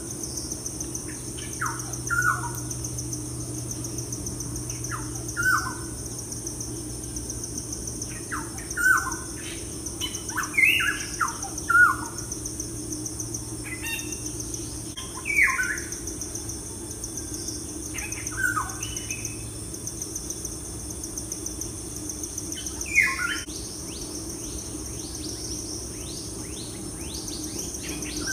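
Birds calling in short, falling chirps every two or three seconds, with a quick run of ticks near the end, over a steady insect-like drone.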